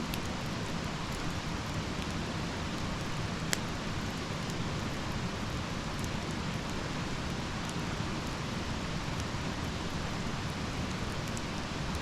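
Campfire burning: a steady hiss with sparse sharp crackles, one louder pop about three and a half seconds in.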